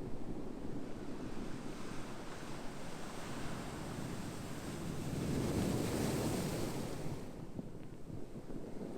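Ocean waves washing in: a steady rush of surf that swells louder about five seconds in, then falls away briefly near the end.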